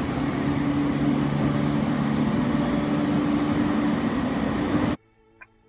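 E231 series commuter train running, heard inside the car: a steady rumble with low humming tones. It cuts off suddenly about five seconds in, leaving near silence and a faint tick.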